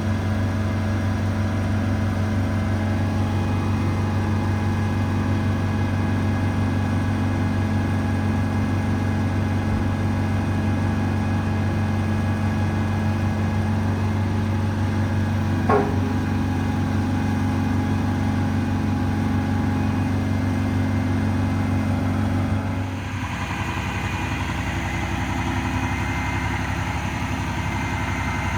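The Peterbilt 337's Paccar PX9 diesel engine running steadily. About 23 s in its note changes and it gets slightly quieter. A brief squeak sounds about 16 s in.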